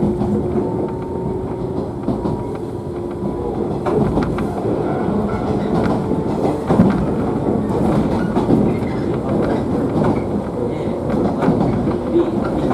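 Running noise inside a JNR 113 series electric train car: a steady rumble of wheels on track, with scattered clicks over rail joints and a faint steady whine in the first few seconds.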